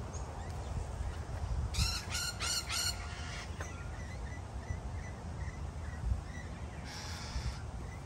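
A bird gives four harsh calls in quick succession, then one more about five seconds later, with faint short chirps from other birds in between. A low rumble runs underneath.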